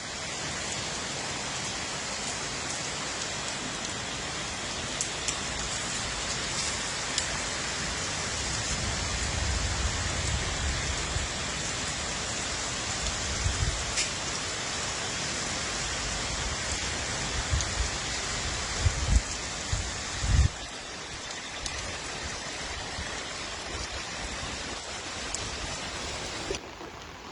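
Heavy rain falling steadily in a downpour, with a few low thuds in the middle. The rain gets a little quieter about three-quarters of the way through.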